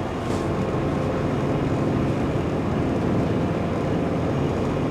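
Semi-truck's diesel engine idling with a steady, even rumble.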